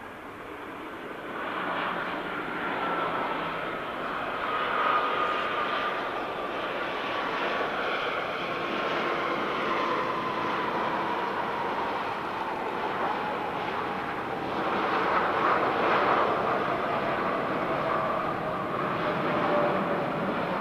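Jet airliner engines running, loud, with a whine that falls slowly in pitch. The noise swells about a second and a half in.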